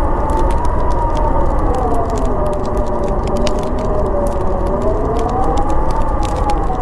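Howling blizzard wind, a dense rush with a moaning pitch that slowly sinks and rises again, over the sharp pops and crackles of a wood fire.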